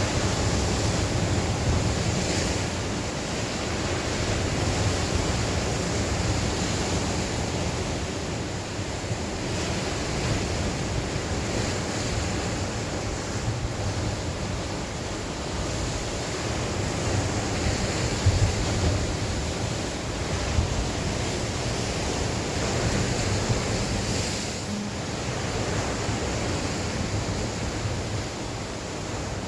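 Sea waves washing on the shore in continuous surf that swells and eases every few seconds, with gusting wind buffeting the microphone. The wind gusts are picked up as a low rumble.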